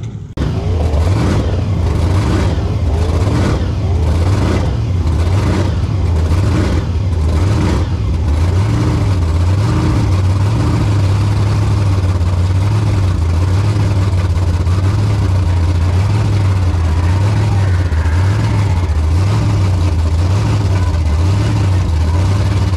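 Skid car's engine revved hard and held high through a burnout, the revs pulsing up and down about every two-thirds of a second for the first eight seconds, then held steady.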